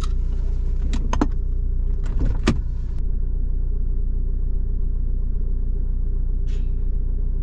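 MPV car running with a steady low engine rumble, a few short clicks and knocks in the first few seconds.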